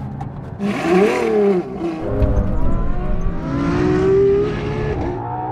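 Ferrari V12 engine at hard acceleration. Its pitch rises and falls back about a second in, then climbs again in one long rise and eases off near the end.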